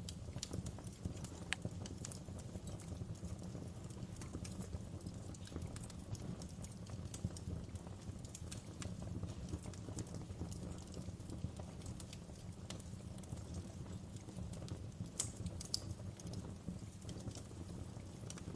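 Wood fire in a fireplace crackling: irregular sharp snaps and pops over a steady low rumble of the flames, with a louder pop about fifteen seconds in.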